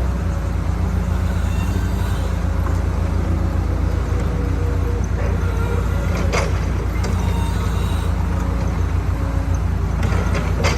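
Diesel engine of a JCB backhoe loader running steadily, with a single metallic knock about six seconds in.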